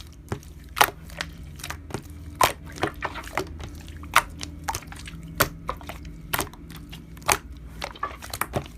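Slime being pressed and squeezed by hand, giving irregular crisp clicks and crackles, about one or two a second.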